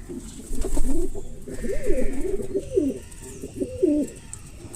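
A bird calling in a run of low, wavering calls, starting about half a second in and stopping after about four seconds.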